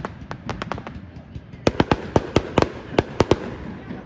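Fireworks display: a quick series of sharp cracks from shells and comets going off, lighter ones in the first second, then a louder run of about ten reports in quick succession through the middle.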